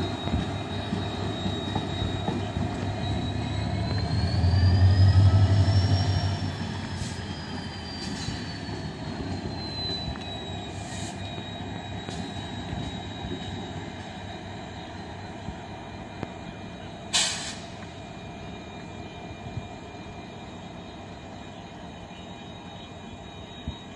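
Diesel-hauled passenger train running along the tracks, its wheels squealing in a long high tone that rises in pitch and then falls back. The locomotive's low rumble is loudest about five seconds in, and the sound then fades as the train moves away. A sharp click comes about seventeen seconds in.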